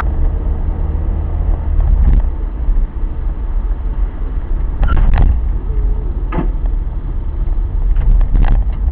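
A car on the move: a steady low engine and road rumble, with a few short knocks and clicks around the middle and again near the end.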